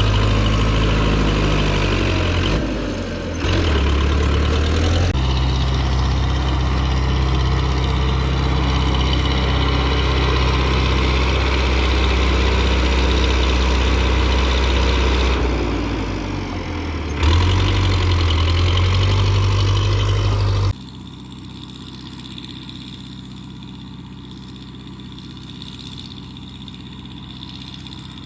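Powertrac Euro 55 Next tractor's diesel engine running hard at high revs while the tractor works to get out of deep mud, its pitch dipping and picking up again a few times. About 21 seconds in the engine drops suddenly to a much quieter, steady idle.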